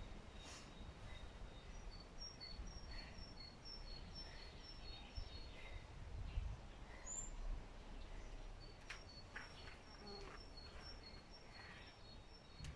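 A small songbird singing faintly: two runs of quick, high, repeated two-note phrases, about three notes a second, over quiet garden background noise.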